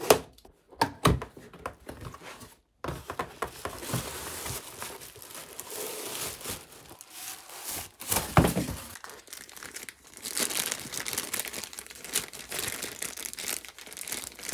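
Packaging being unwrapped by hand: continuous crinkling and rustling with some tearing, broken by a few handling knocks, the loudest about 8 seconds in.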